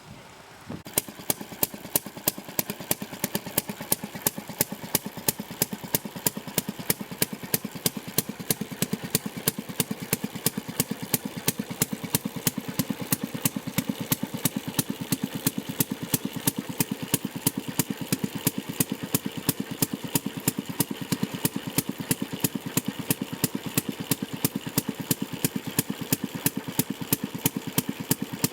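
Sheffield railroad track-car engine, a water-cooled single-cylinder two-stroke, firing up about a second in and then running steadily with a sharp, even crack on every firing stroke.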